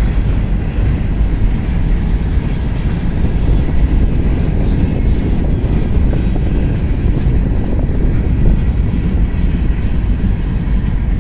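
Long train of loaded steel gondola cars rolling past, a steady rumble of wheels on the rails.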